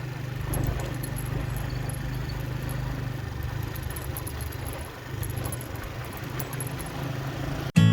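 Motorcycle engine running steadily while riding, with wind noise over the microphone. Near the end it cuts off abruptly into a strummed guitar.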